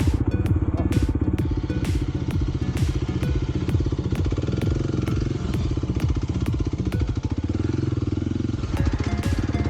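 Kawasaki KLX 300's single-cylinder four-stroke engine running under varying throttle on a dirt trail, with frequent sharp clicks and knocks.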